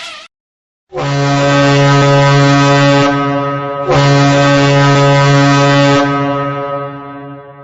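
Ship's horn giving two long, deep blasts, the second fading away near the end; two low notes sound together.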